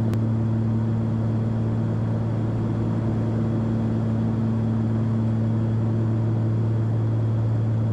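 Cabin drone of a Cessna 340's twin piston engines and propellers in cruise on approach, holding a steady low hum with a constant pitch.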